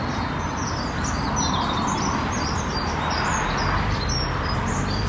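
Many short, high chirps of small birds, several a second, over a steady rushing background noise.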